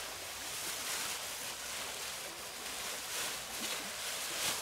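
Steady heavy rain falling: an even hiss that swells gently.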